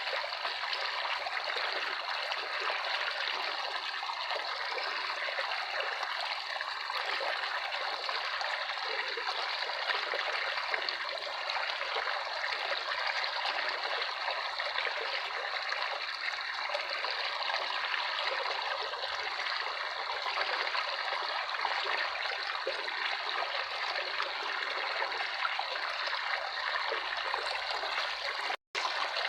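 Running water trickling and babbling steadily, like a small stream. It cuts out completely for a split second near the end.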